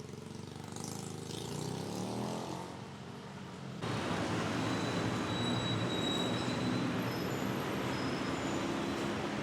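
Street traffic noise: a motor vehicle passing, its engine pitch rising and falling. Almost four seconds in, the sound jumps suddenly to a louder, dense roar of traffic that stays steady.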